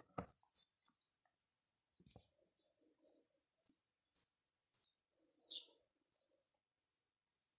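Faint bird chirping: short, high chirps repeating about twice a second.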